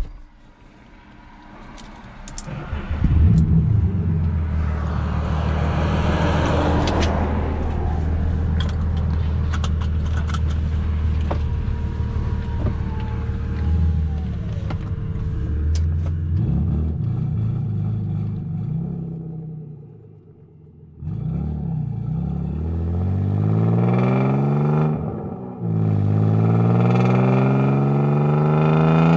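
BMW E36 engine through an RR Performance sport muffler: it cranks and starts about three seconds in and settles into a steady idle. It falls quiet briefly about twenty seconds in, comes back, and is then revved up sharply several times near the end, each rev rising in pitch.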